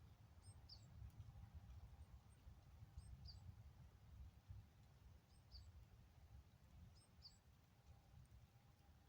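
Faint calls of a small bird: a short high chirp repeated about every two seconds, about five times, over a low steady background rumble.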